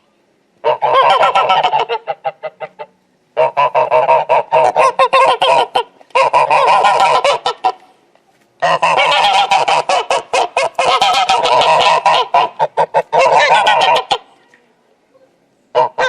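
Goose honking in bouts of rapid, closely repeated calls, each bout lasting a second or two up to about five seconds, with short pauses between them.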